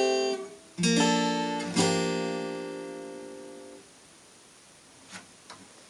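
Acoustic guitar playing the closing strums of a song: a strum about 0.8 s in, then a final chord about 1.8 s in left to ring and fade out over about two seconds. Two faint short knocks follow near the end.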